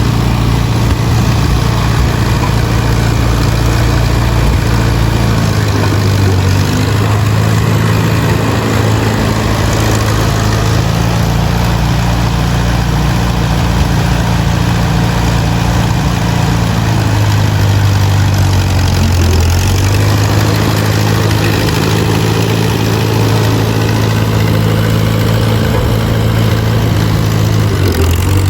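1951 Allis-Chalmers WD tractor's four-cylinder engine running steadily, its pitch shifting a little a few times as the engine speed changes.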